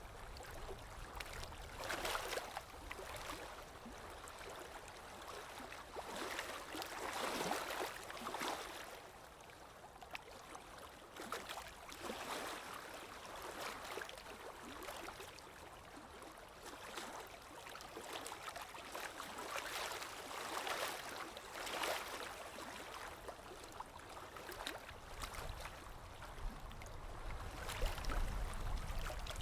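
Ambient water-sound track: running, splashing water with irregular louder swells every second or few.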